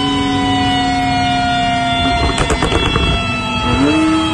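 Porsche 991 Turbo's twin-turbo flat-six held at high, steady revs on the dyno, its pitch easing slightly, then about two seconds in it comes off load into a string of sharp exhaust pops and crackles, with a short rev blip near the end.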